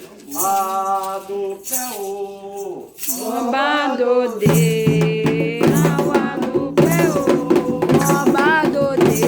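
Candomblé ritual song sung by voices with a shaker-type rattle keeping time. About four and a half seconds in, more voices join and the singing grows fuller and louder.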